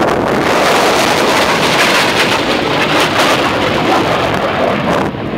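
Military jet aircraft passing at an airshow: loud, steady jet engine roar with a rushing, rumbling quality, easing slightly near the end.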